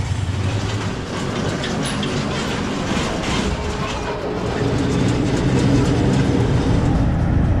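Steady rumble and rattle of a vehicle in motion, heard from on board.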